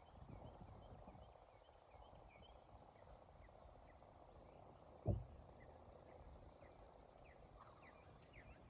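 Quiet outdoor background with faint, scattered short bird chirps, and a single dull thump about five seconds in.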